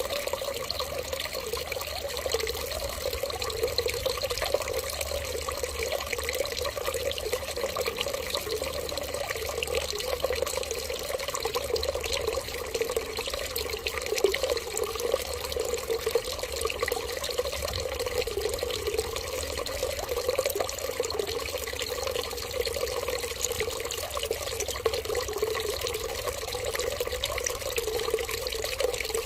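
Water running and trickling steadily, an even, unbroken flow.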